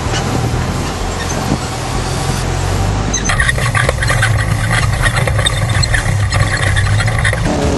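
Off-road vehicle driving, its engine a steady low hum under road noise. About three seconds in, a dense high clatter joins and lasts until near the end.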